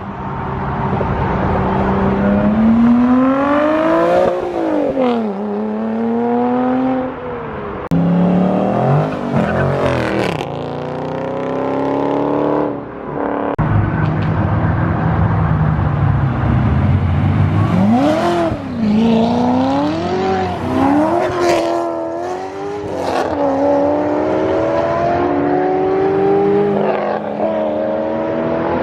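Several cars accelerating hard one after another, engines revving up through the gears with the pitch climbing and dropping at each shift. A few sharp cracks stand out, and near the end a steadier engine note climbs slowly.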